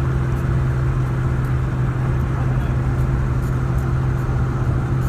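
Steady in-cab truck noise: a constant low engine hum over road rumble.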